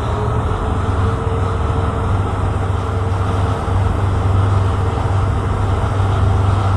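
Tugboat's diesel engine running with a steady low drone and a faint steady whine above it.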